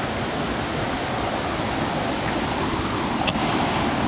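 Waterfall rushing steadily: an even, constant sound of falling water.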